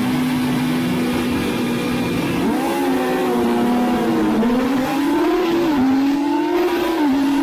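Race motorcycle engine heard from on board, holding a steady pitch for about two and a half seconds, then rising and falling as the throttle is opened and closed.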